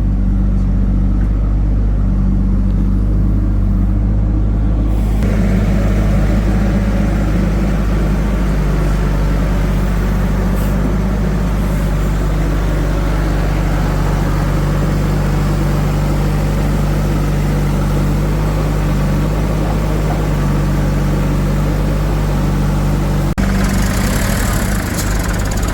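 Heavy diesel engine running steadily, joined by louder, rougher mechanical noise from about five seconds in; the sound breaks off abruptly near the end, as at an edit.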